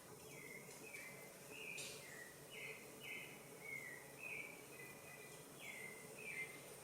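Thick-billed euphonia giving a faint run of about ten short, downslurred high chirps, spaced irregularly and some close together in pairs, over a low steady background hum.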